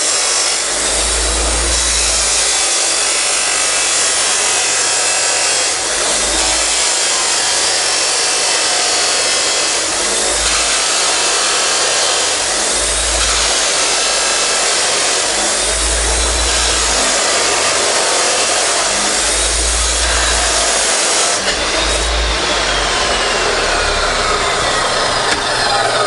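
A power tool cutting through stainless steel exhaust pipe, a steady, continuous cutting noise that eases off slightly near the end. The metal is tough to cut.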